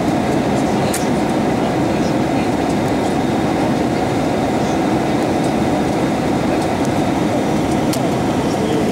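Steady cabin noise of an Airbus A320-232 in flight: the even roar of air rushing past the fuselage and its IAE V2500 turbofan engines, heard from inside the cabin, with a couple of faint ticks over it.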